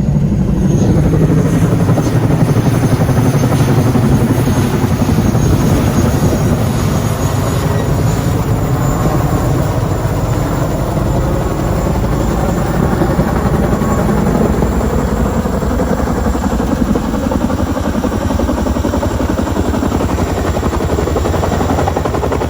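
Large firefighting helicopter running loud and close, its rotor blades beating rapidly, with a thin high turbine whine over the top.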